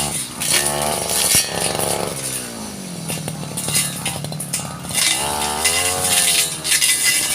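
Small two-stroke Stihl engine cutting brush, revved up and back down twice, with a short sharp click about a second and a half in.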